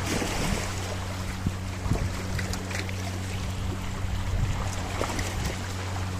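Sea waves washing and splashing among rocks, with small scattered splashes, over a steady low hum.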